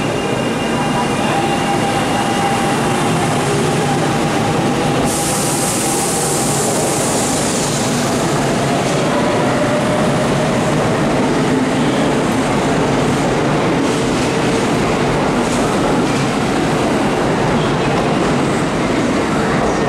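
Kintetsu 1026 series electric commuter train pulling out of a station platform and gathering speed, its motors whining and shifting in pitch over the running noise of the wheels. A burst of hiss comes about five seconds in and lasts a few seconds.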